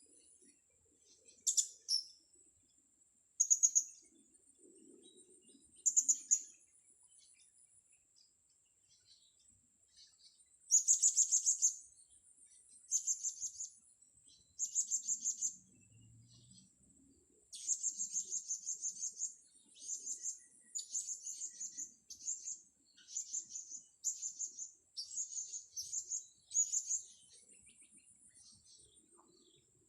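Blue-crowned hanging parrots (serindit) calling in bursts of rapid, sharp, high-pitched chirps. The bursts are spaced out at first and come almost without a break in the second half. A thin, steady high tone runs underneath.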